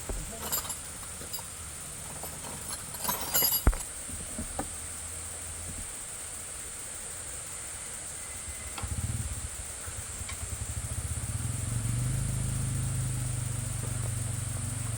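A few metal clanks and knocks, then about nine seconds in an engine starts and runs with a steady low, rapid pulse.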